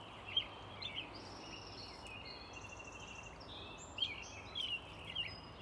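Several small birds chirping and calling, a string of short high chirps with a few brief buzzy trills mixed in, over a faint steady outdoor hum.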